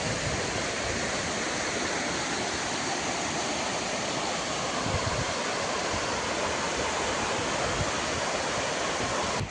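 Steady roar of floodwater rushing over a dam.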